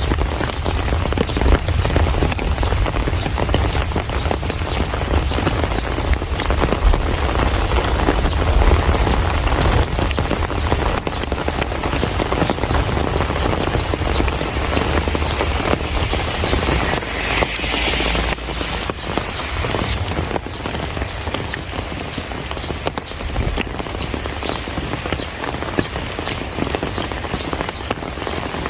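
Heavy rain falling steadily, with a dense patter of individual drops striking a surface. About two-thirds of the way through there is a brief, brighter hiss.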